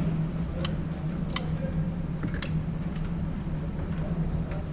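A few faint, sharp cracks of gunshots from other shooters at the range, over a steady low hum.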